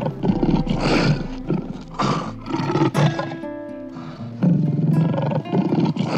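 Lions growling and snarling in several harsh bursts while mating, over background music.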